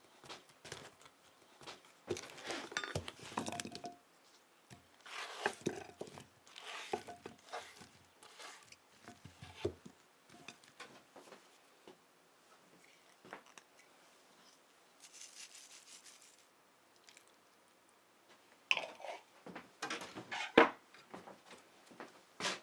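Hand food-preparation sounds in a kitchen: irregular bursts of crunching and scraping with light taps, a few sharp clinks near the end.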